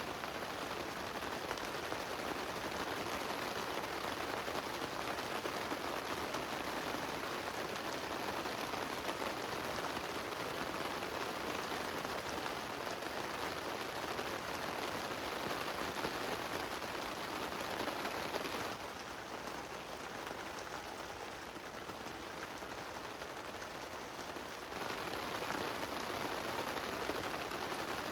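Heavy rain falling steadily on a tent. The rain hiss turns quieter and duller for about six seconds past the middle, then comes back at full level.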